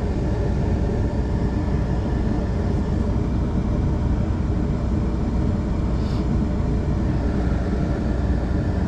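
Steady low rumble of a vehicle engine idling, with a faint tick about six seconds in.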